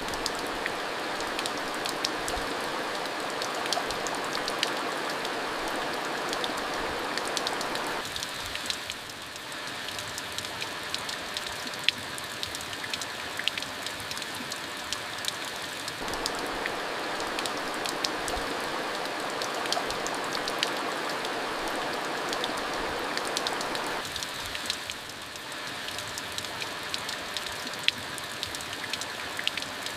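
Steady monsoon rain with many sharp individual drops ticking on a surface. The rain swells and eases in turn about every eight seconds.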